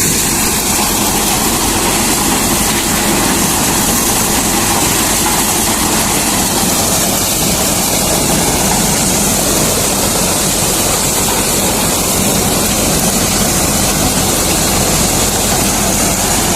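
Reinforce P-335 maize thresher running steadily, a loud, even mechanical noise with no breaks.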